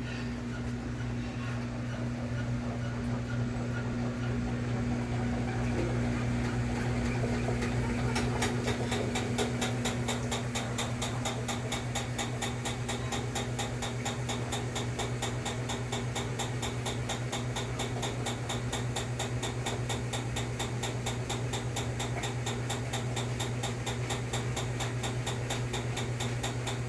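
Maytag washing machine running with a steady low motor hum; about eight seconds in, a rapid, even ticking joins and carries on.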